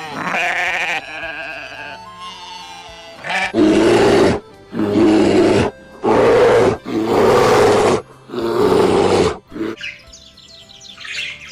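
A large animal roaring five times in a row, each roar about a second long, over background music.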